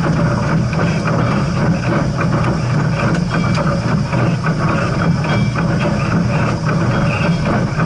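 Steam train running, a steady low rumble with rattling.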